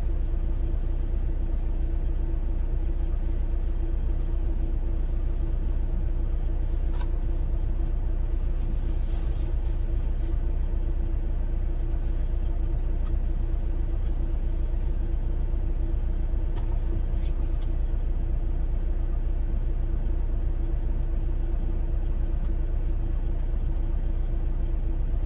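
Semi truck's diesel engine idling steadily, heard from inside the sleeper cab: an even low rumble with a constant hum, and a few faint clicks.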